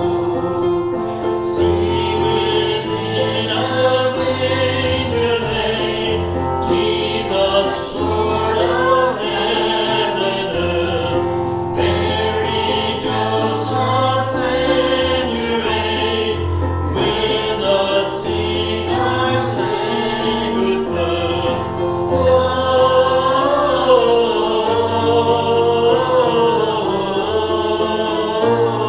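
Church congregation singing a hymn together, with a steady accompaniment underneath.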